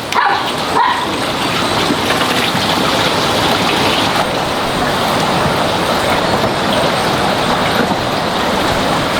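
A dog barks twice, briefly, right at the start, over a steady rushing noise.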